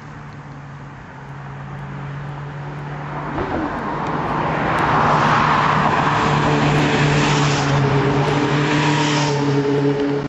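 Classic motorcycles riding down the road toward the microphone. Their engines get steadily louder over the first five seconds or so, then run loud and close, with more than one engine note, until the sound cuts off suddenly at the end.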